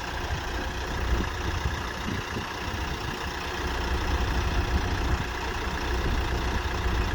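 Tractor engine running steadily, deep and even.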